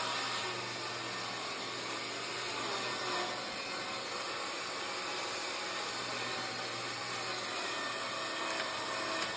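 Festool track saw running steadily as it cuts a bevel along the edge of an epoxy-poured tabletop, a constant noisy machine sound that is even throughout.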